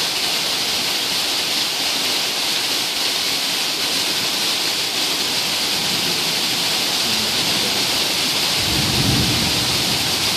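Heavy rain pouring down in a steady, dense hiss. Near the end a low rumble of thunder comes in under the rain.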